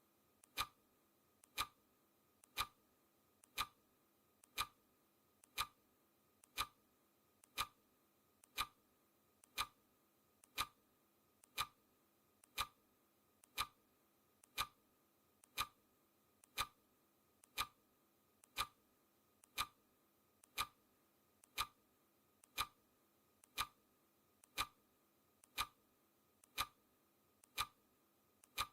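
Clock ticking sound effect, one tick a second, each tick a faint click followed at once by a louder one.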